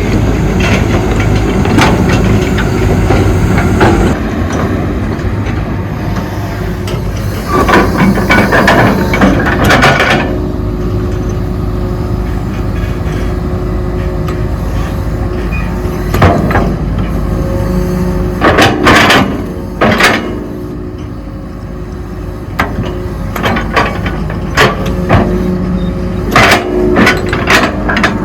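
Excavator's diesel engine running steadily while it digs, with repeated bursts of clanking and scraping.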